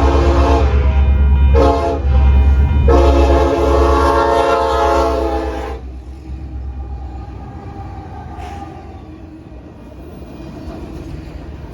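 Locomotive air horn sounding a long-short-long pattern, the grade-crossing signal: the tail of a long blast, one short blast, then a final long blast that stops about six seconds in. A loud low rumble of the diesel locomotive runs underneath and goes on more quietly after the horn stops.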